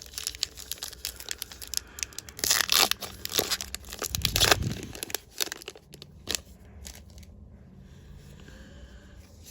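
Trading-card booster pack's foil wrapper being torn open and crinkled, in a run of sharp crackling rips that are loudest from about two to five seconds in, then fainter rustling as the wrapper and cards are handled.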